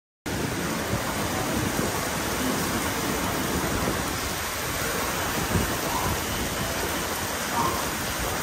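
Heavy rain falling on an open railway platform and tracks: a steady, even hiss that cuts in suddenly just after the start.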